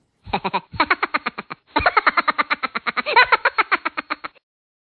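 An edited-in sound effect: a rapid run of pitched pulses, about ten a second, in three short stretches, stopping abruptly near the end.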